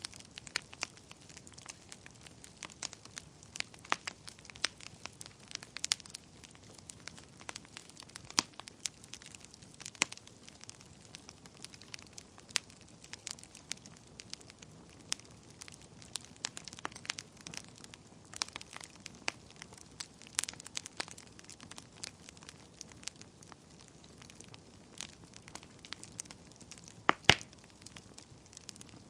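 Wood fire burning in a fireplace: a soft hiss with frequent irregular crackles and snaps, and one louder pop near the end.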